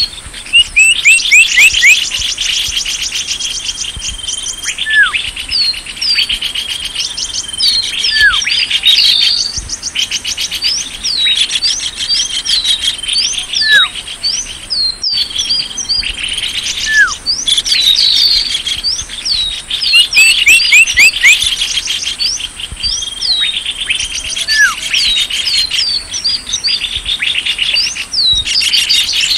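Recorded small-bird lure call playing: dense, rapid high-pitched chirps and buzzy trills, with now and then a single downward-sliding whistle. It stops for a moment about halfway through.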